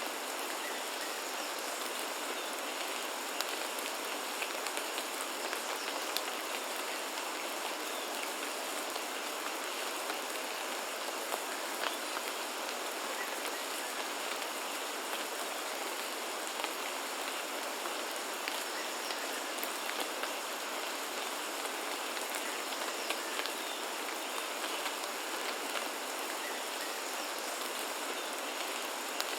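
Steady rainfall, a continuous even hiss with many individual drops ticking sharply throughout.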